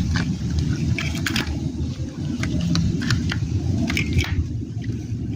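Handling noise while pulling out and working the wires of a standing fan's motor: scattered small clicks and rustles over a steady low rumble.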